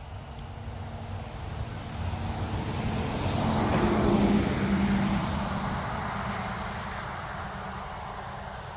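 A car passing by on the road. It grows louder to a peak about four seconds in, then slowly fades away.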